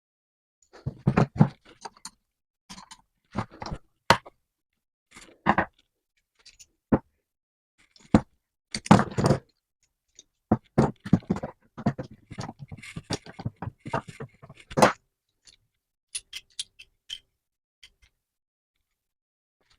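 Irregular series of short knocks, taps and scraping sounds with brief silent gaps: metal parts and tools being handled and worked on a bench.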